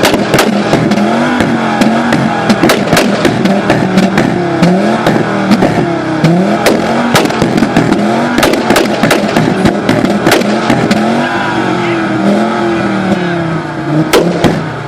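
Audi 90 2.3 10V's five-cylinder engine being blipped up and down repeatedly, with many sharp pops and bangs from the exhaust as it backfires flames on each lift-off.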